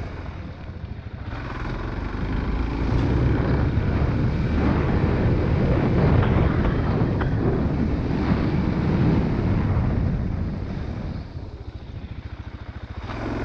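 A small vehicle's engine running while riding over rough ground. It grows louder for several seconds, then drops back near the end, with some wind on the microphone.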